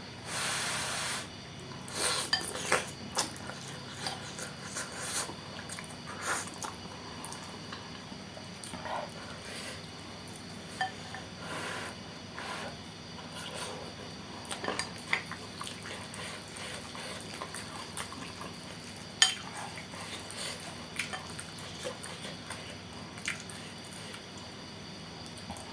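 Close-up eating sounds of wet noodles with bean sprouts: slurping, chewing and mouth noises, with scattered clinks of cutlery against the bowl. A longer noisy slurp comes right at the start.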